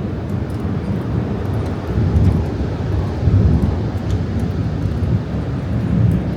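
Continuous low rumble of a severe thunderstorm, swelling a few times.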